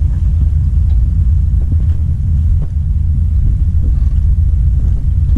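Steady, loud low rumble of wind buffeting the microphone, with faint small knocks above it.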